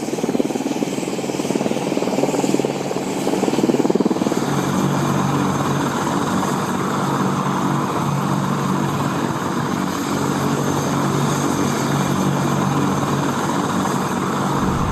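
AH-64 Apache helicopter running steadily, with rotor and turbine noise; about four seconds in the sound changes and a steady hum comes in.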